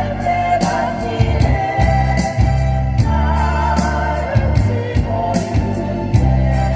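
Vocal ensemble singing a Korean ballad over band accompaniment, with a steady bass and an even cymbal beat.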